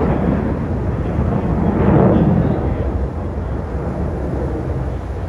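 Aircraft passing overhead, a loud low rumble that swells about two seconds in and then eases off.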